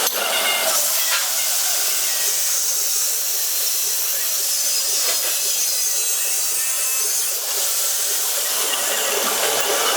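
A workshop power tool running steadily as it cuts metal, a continuous hiss with a brief dip about seven and a half seconds in.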